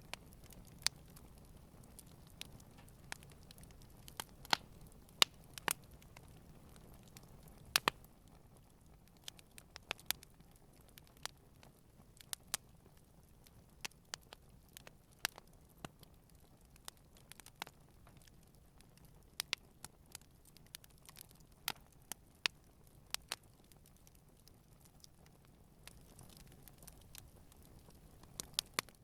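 Campfire crackling: irregular sharp pops and snaps, a few much louder than the rest, over a faint low hiss of the flames.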